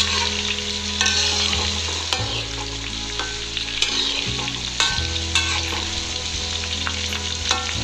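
Tofu cubes deep-frying in hot oil in a wok, a steady sizzle, while a spatula turns them, scraping and knocking against the wok several times.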